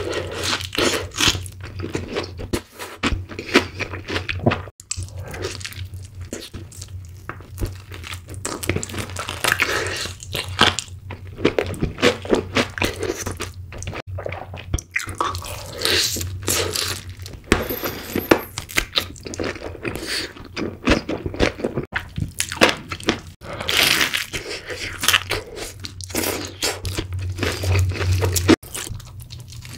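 Close-up eating of crispy fried chicken drumsticks coated in cheese sauce: repeated crunches of the fried crust as it is bitten, with chewing between, in an irregular stream of crackles.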